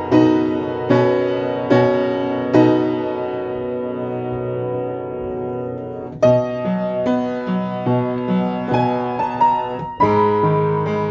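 Piano playing a slow piece: chords struck about once a second, one held and fading for a few seconds, then quicker notes resuming about six seconds in and a fresh phrase starting near the end.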